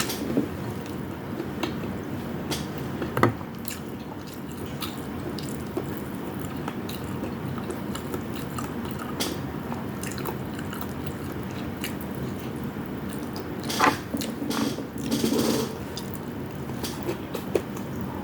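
A person biting and chewing food close to the microphone: scattered small wet clicks and crunches, with a louder bite about 14 seconds in and a brief burst of chewing just after. A steady low hum runs underneath.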